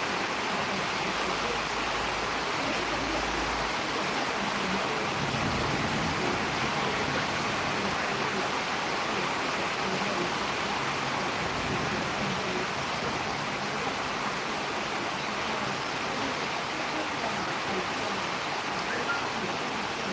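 Steady rushing noise of storm wind, even and unbroken.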